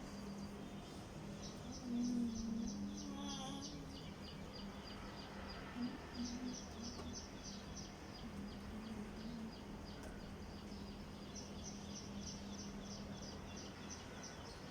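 A bird calling in quick runs of short, high chirps, about four or five a second, three runs in all, over a steady low hum.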